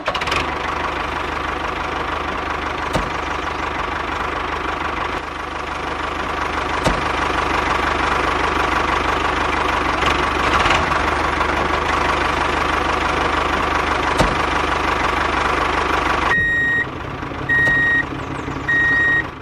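Engine running steadily for most of the stretch, then cutting off; near the end three evenly spaced high beeps like a vehicle's reversing alarm.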